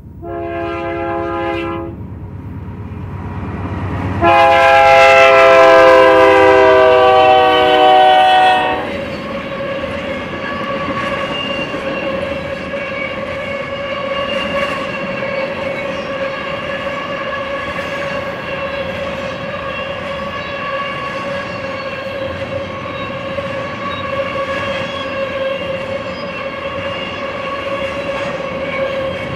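A BNSF GE C44-9W diesel locomotive's air horn gives a short blast, then a long, loud blast about four seconds in whose pitch drops slightly as the engine draws near and passes, over the rising rumble of the diesel. Then double-stack intermodal cars roll by, with steady wheel clicks over the rail joints and a steady whine from the wheels.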